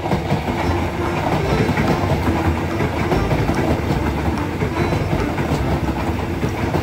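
Electric multiple-unit train passing close by at speed: a steady loud rumble of wheels on the rails with a rapid clatter over the track.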